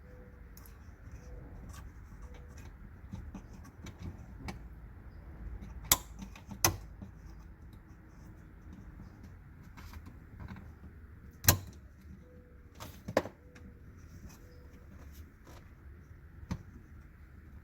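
Scattered sharp clicks and knocks of small car parts and clips being handled and fitted by hand, a few of them much louder than the rest, over a low steady hum.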